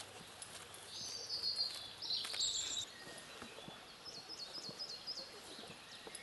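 Songbirds singing over faint outdoor ambience: a warbling phrase about a second in, then a run of short repeated chirps around four seconds. Soft hoof steps of a horse walking on a grass and dirt path sound faintly beneath.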